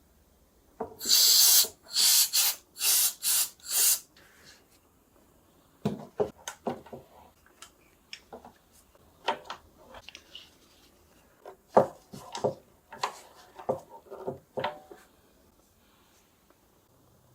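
Hand work on a wooden cello body: several short hissing strokes in quick succession, then a scatter of light wooden knocks and clicks as the instrument and tools are handled.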